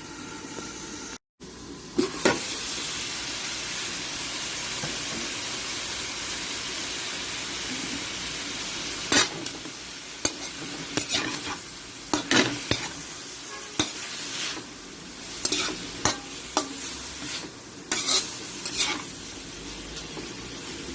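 Food sizzling as it fries in a pan, with a spatula scraping and knocking against the pan several times in the second half. The sound drops out briefly about a second in.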